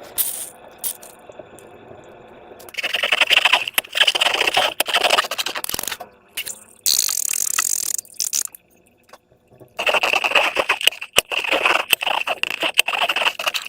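Slime being squished and worked by hand: dense wet crackling and popping in two long stretches, with a short hiss between them.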